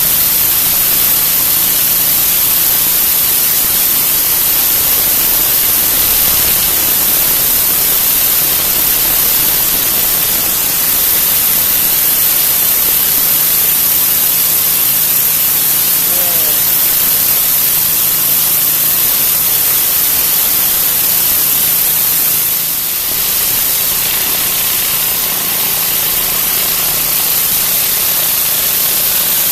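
Gas-engine Ridgid pressure washer running, its high-pressure water spray hissing steadily on concrete over the hum of the engine. The level dips briefly about 23 seconds in.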